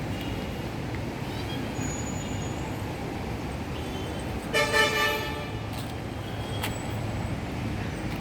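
A vehicle horn gives one short toot, steady in pitch, about halfway through. Low traffic rumble runs underneath.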